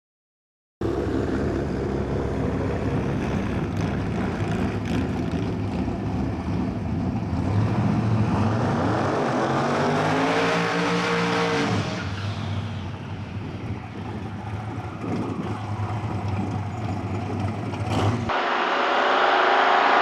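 Twin-turbo V8 drag car engine running at idle, with one rise and fall in pitch in the middle. Near the end the sound changes abruptly to a louder, hissier engine noise.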